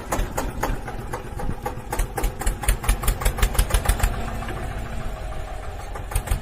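Tractor engine sound effect running with a rapid, even chugging knock.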